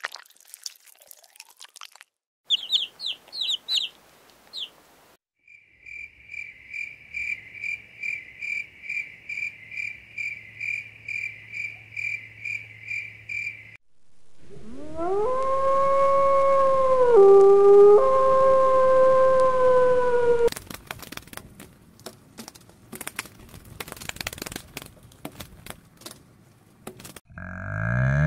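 A string of animal calls: a few quick high chirps, then a steady pulsing call repeating about twice a second, then the loudest part, a wolf howling in one long call that dips briefly in the middle. Scattered crackles follow, and near the end a zebu cow starts to moo.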